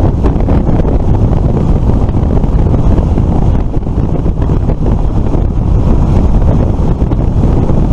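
Heavy wind buffeting the microphone on a moving Suzuki FL125 Address scooter: a loud, steady low rumble of wind and road noise.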